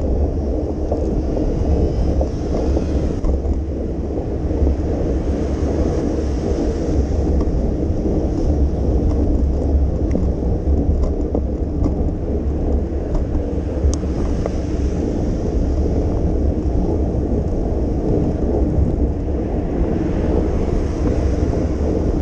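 Wind buffeting the microphone of a moving bicycle: a steady, heavy low rumble, with a fainter hiss above it.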